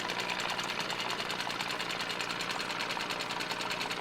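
Sailing boat's engine running steadily with a fast, even clatter.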